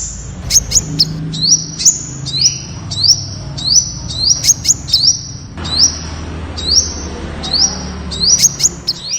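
Temminck's sunbird calling: a steady series of short, high notes, each sweeping up sharply, about two a second, with sharp, very high ticks in between.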